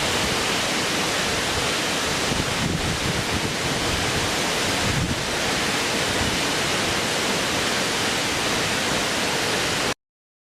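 Steady, even rushing noise, like a nature-ambience track of water or wind, with no distinct events; it cuts off suddenly near the end.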